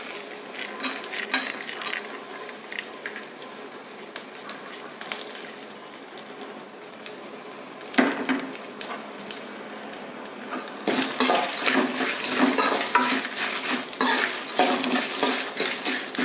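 Lentils, peanuts and dried red chillies frying in a little oil in an aluminium kadai, sizzling quietly with scattered small clicks. About halfway there is a single metal clank, and for the last third a steel ladle scrapes and rattles the ingredients around the pan as they are stirred, louder.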